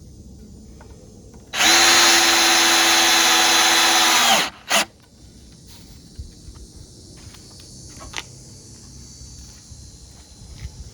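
Power drill driving a screw into wood framing: it runs at a steady speed for about three seconds, winds down, then gives one short burst to seat the screw.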